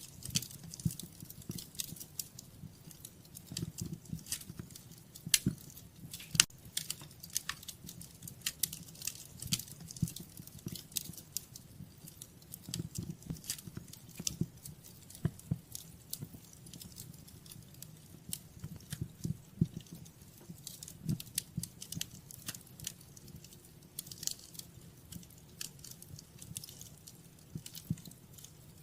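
Wood fire crackling in a fireplace: irregular sharp pops and snaps of burning logs over the soft low rumble of the flames, with the loudest pops about five and six seconds in.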